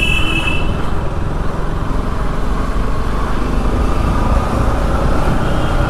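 Motorcycle running on the road, a steady low rumble of engine and road noise with wind on the microphone. A horn toots briefly at the very start.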